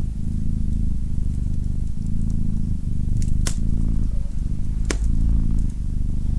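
Domestic cat purring close up, a steady low rumble that pulses in phases about a second long with its breathing. Two sharp crackles from a wood fire break in about three and a half and five seconds in.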